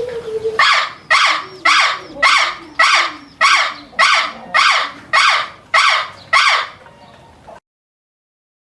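A bird giving a harsh, honking call about eleven times in a row, evenly spaced at roughly two calls a second, then stopping.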